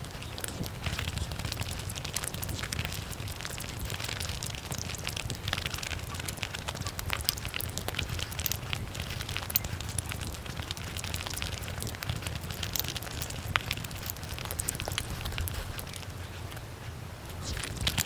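Close-miked eating sounds of cake and Indian sweets played back at five times speed, so the chewing and mouth clicks run together into a dense, rapid crackle.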